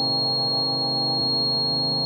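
Modular synthesizer playing a sustained electronic drone of layered steady tones with a thin high whine on top; the lower tones shift about a second in.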